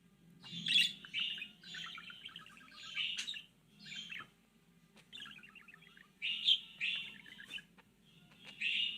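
A bird singing in short chattering, warbling phrases, about one a second with brief pauses between them; the singer is taken to be a male calling for a mate.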